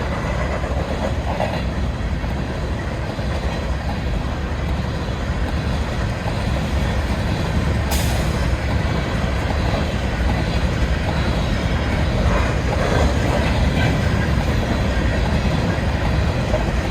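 Covered grain hopper cars of a BNSF freight train rolling past, a steady rumble of steel wheels on rail with some clickety-clack at the rail joints. A single sharp click comes about eight seconds in, and the rumble grows a little louder in the second half.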